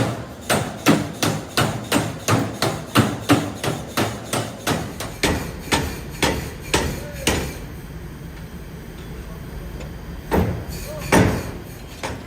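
Hammer blows on metal in a steady run, about three a second, for several seconds, then a pause and two more blows near the end.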